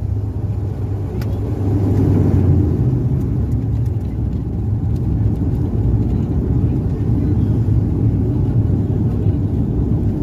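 Steady low rumble of an aircraft, with a few faint clicks.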